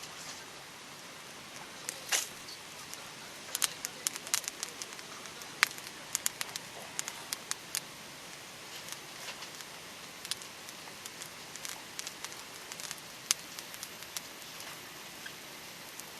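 Wood campfire crackling: irregular sharp pops and snaps over a steady soft hiss, busiest in the first half.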